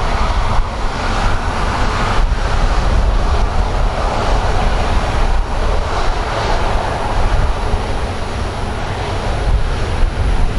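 Boeing 737-500 airliner's CFM56 jet engines, a loud steady rush over a low rumble, as the jet rolls on the runway after landing.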